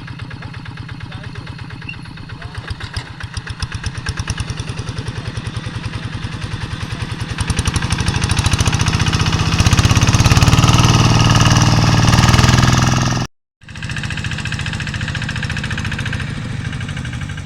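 Quick G3000 two-wheel hand tractor's diesel engine running with a regular pulsing beat that quickens and grows louder from about two seconds in, loudest about two-thirds of the way through. It cuts out abruptly for a moment, then carries on at a steadier, lower level.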